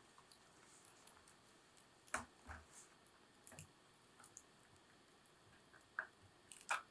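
Wood fire burning quietly, with a few sharp crackles and pops from the burning wood, the loudest about two seconds in and just before the end.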